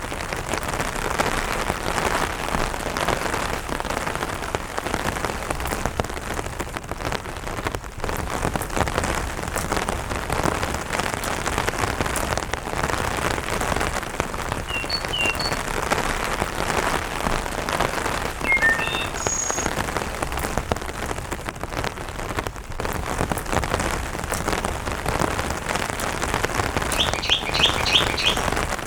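Steady light rain pattering on an umbrella, dense drops all through. A small bird chirps briefly a few times: around the middle, and in a quick run of about six notes near the end.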